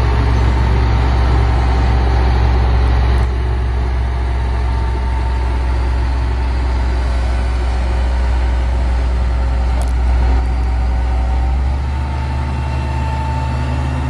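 A large vehicle engine running steadily nearby, a deep low rumble that shifts slightly in pitch and level a few times.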